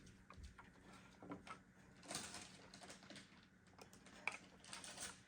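Faint handling noise: scattered light clicks and short rustles of small computer parts and packaging being handled.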